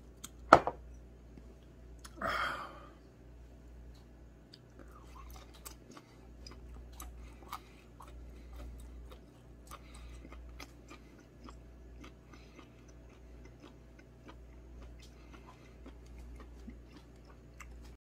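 A person chewing grilled squid, with many small irregular crunchy ticks over most of the stretch. About half a second in, a glass knocks sharply on the wooden table, the loudest sound. Around two and a half seconds a short breathy burst follows.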